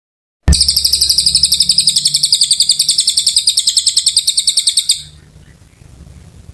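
A cililin songbird singing one long, fast, high trill of about ten notes a second. The trill starts suddenly and cuts off after about four and a half seconds. This is the kind of long, energetic song used as tutor song for magpie-robins.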